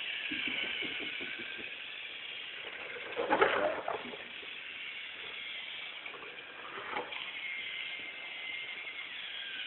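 Battery-powered GeoTrax toy airplane running with a steady high whirring hiss and a faint wavering whine, broken by a brief louder noise about three and a half seconds in.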